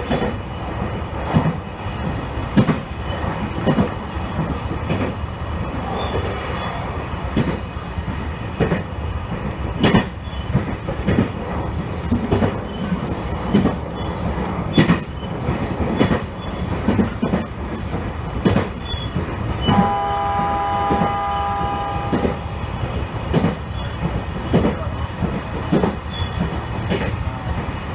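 Electric train running along the line, its wheels clicking over rail joints again and again. About two-thirds of the way through, the train's horn sounds one steady note for about two seconds.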